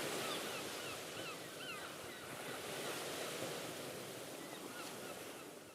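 Steady wash of water and wind, with a run of short high bird calls in the first two seconds and a few more near the end.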